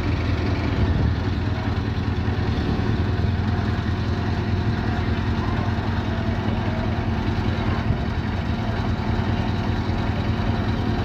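Scania R-series V8 diesel engine running steadily with a deep, even low hum.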